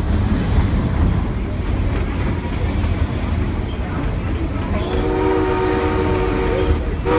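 Steady rumble of a train ride heard from an open-sided passenger coach, with locomotive No. 111's whistle sounding one steady blast of about two seconds, starting about five seconds in.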